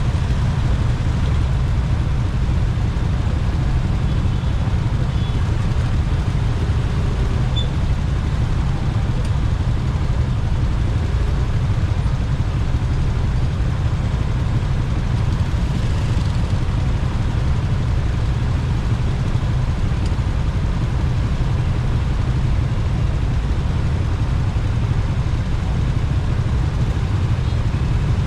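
Steady ride noise from a motorcycle moving through traffic: a low, even rush of wind on the microphone over the running engine and the traffic around it, with no change in pace.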